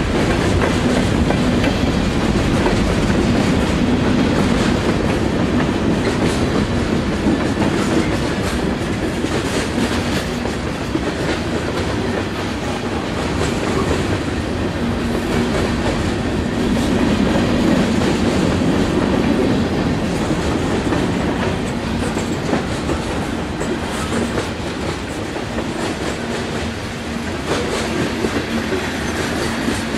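Freight train cars rolling steadily past, wheels clicking over the rail joints.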